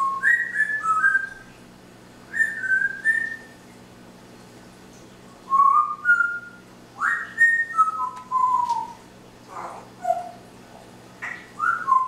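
Parrot whistling short phrases of clear notes that step up and down in pitch, in several bursts with pauses between, ending in a few rougher sliding calls.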